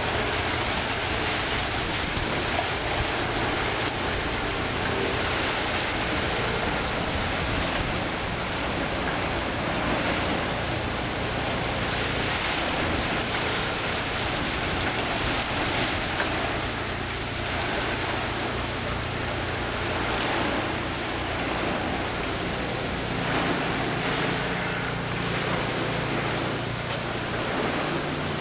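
Hurricane wind blowing hard and steadily, swelling and easing in gusts, with wind buffeting the microphone.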